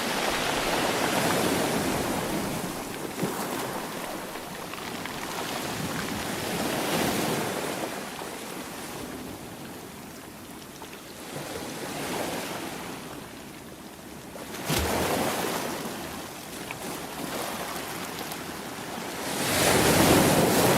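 Sea waves breaking and washing in repeated surges every few seconds, with a sudden sharp break about three-quarters of the way through and the loudest wave near the end.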